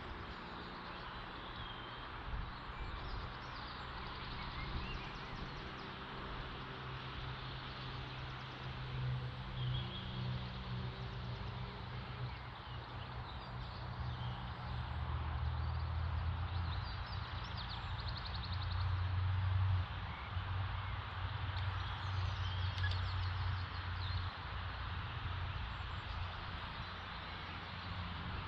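Open-field ambience: small birds chirping now and then over a steady low rumble that grows louder about halfway through and eases off near the end.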